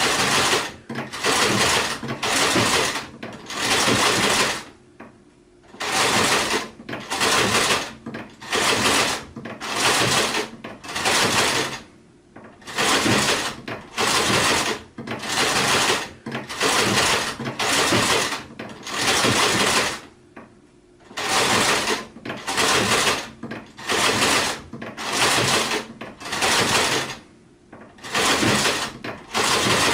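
Sewing machine stitching in short bursts, roughly one a second, each run lasting well under a second before it stops, with a few slightly longer pauses between runs.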